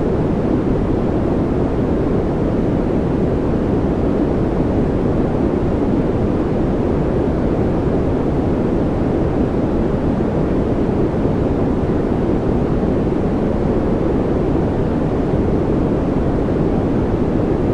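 Steady synthetic noise played as a 'white noise' track for focus and relaxation, deep and even with most of its weight in the low end and little hiss, so it sounds closer to brown noise. It never changes.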